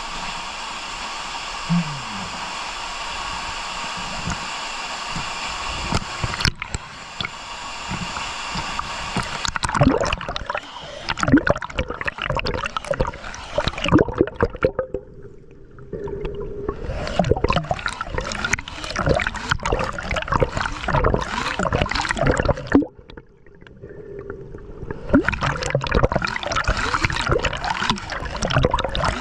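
Water heard through a camera's waterproof housing during a dive: a steady muffled rush at first, then from about a third of the way in, irregular gurgling and crackling of water and bubbles, dropping off briefly twice.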